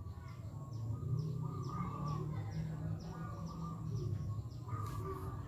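A bird calling in a quick run of short falling chirps, about three a second, over a steady low background hum, with a couple of sharp clicks near the end.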